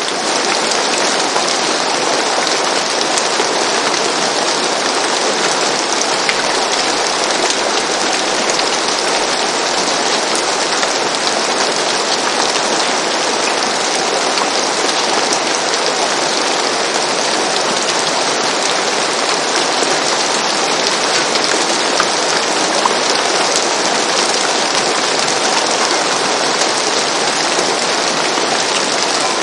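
Steady rain falling, an even hiss dotted with fine drop ticks.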